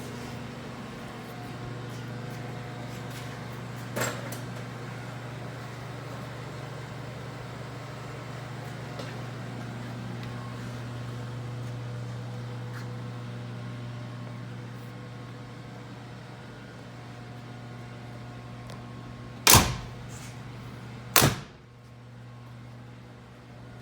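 Steady low mechanical hum, with a light click about four seconds in and two loud sharp knocks near the end, a little under two seconds apart.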